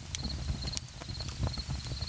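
Wood campfire crackling with irregular sharp pops over a low steady rumble of the flames. Crickets chirp in short pulsed trills behind it.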